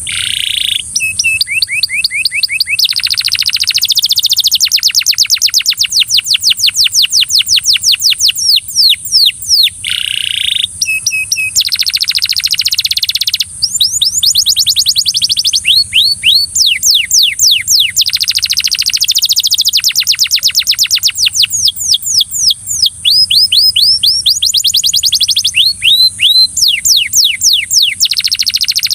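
Belgian canary singing loud, fast trills of rapidly repeated notes, one rolling phrase after another with brief breaks between them. A steady high-pitched hiss runs underneath throughout.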